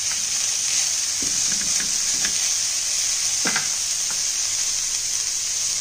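Chopped spring onions sizzling steadily in hot ghee in a stainless steel pot, with a few light clicks as they are stirred.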